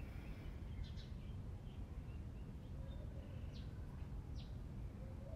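Small birds chirping a few times, short high calls scattered through, over a steady low background rumble.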